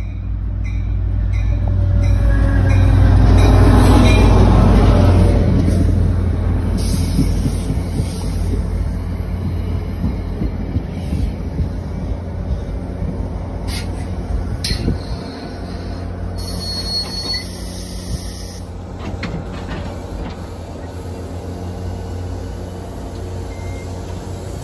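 Diesel-hauled passenger train passing close by: the locomotive's engine rumble swells to its loudest about four seconds in, its pitch falling as it goes by, then the coaches roll past with a steady wheel rumble, a few clacks and a brief wheel squeal.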